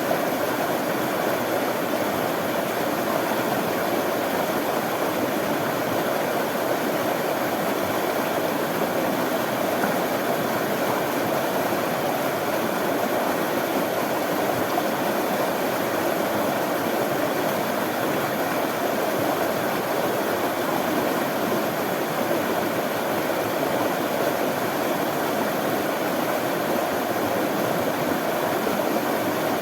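Running water flowing steadily, an even rushing noise with no breaks or changes.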